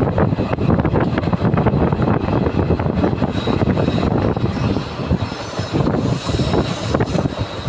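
Passenger train coach running up a steep gradient, heard from a window seat inside: a steady rumble of wheels on rail with dense rattling and clatter. From about halfway through, a faint high squeal from the wheels joins in.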